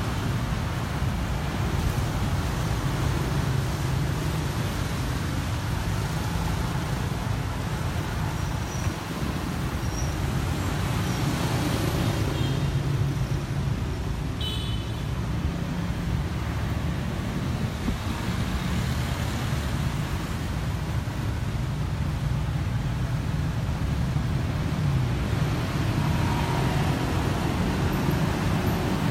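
Road traffic noise: a steady low rumble of motor vehicle engines, with a brief high-pitched tone about halfway through.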